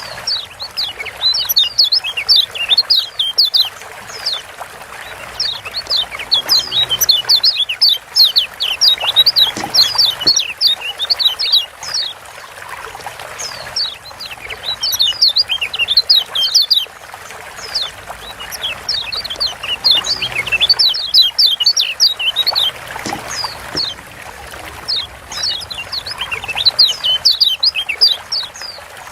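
Yellow white-eye (Lombok kecial kuning) giving its rapid 'ciak' chirping calls. Each chirp is a quick downward sweep, strung in fast runs of a few seconds with short pauses between them.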